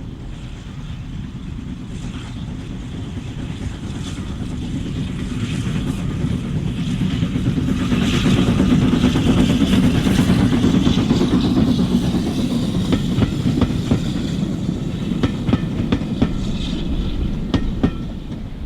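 Steam-hauled train passing, its rumble growing louder to a peak about halfway through, followed by a run of sharp clicks from the wheels over rail joints as the coaches go by.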